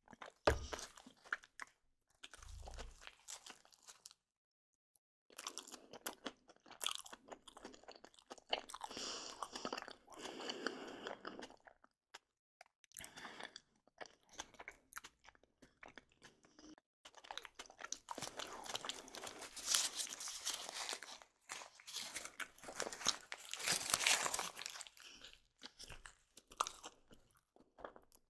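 Crunching in irregular bursts with short pauses, loudest about two-thirds of the way in.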